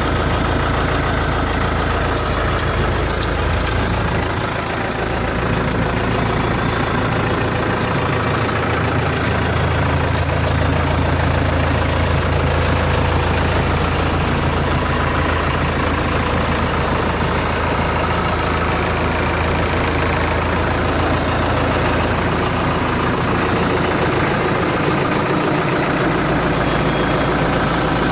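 New Holland T4050 tractor's diesel engine running steadily, its low tone shifting about four to five seconds in and again near the end.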